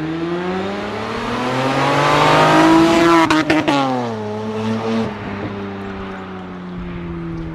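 Straight-piped Honda V6 with stainless headers accelerating past on a flyby: the exhaust note climbs in pitch and grows louder, peaks about three seconds in with a few sharp crackles, then drops in pitch and fades as the car moves away.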